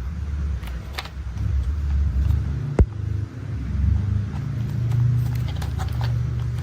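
A heavy-machinery engine rumbles low and steady, its pitch shifting a little, with scattered light clicks and clanks and one sharp knock about three seconds in.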